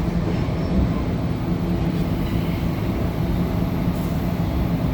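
Interior running noise of an A Goninan & Co Tangara electric multiple unit travelling at speed: a steady low rumble with a faint hum from the traction equipment.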